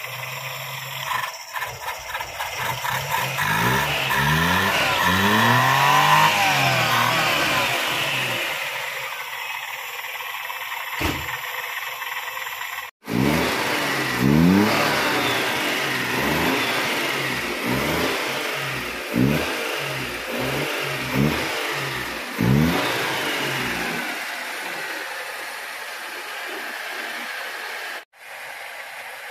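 Perodua Kancil 660's small three-cylinder petrol engine running and being revved over and over, its pitch rising and falling with each blip of the throttle. The sound breaks off abruptly twice.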